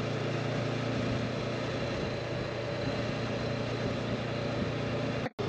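Honda motorcycle engine running steadily while riding, with a low hum under an even rush of wind and road noise. The sound cuts out completely for a split second near the end.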